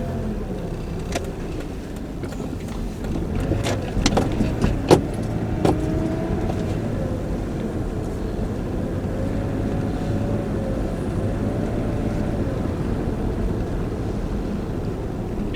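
Car running with a steady low rumble, with a few sharp clicks or knocks about four to six seconds in.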